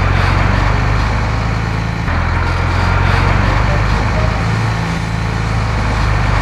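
Sound effect of a large truck's engine running steadily, a deep hum with a rough noisy layer above it.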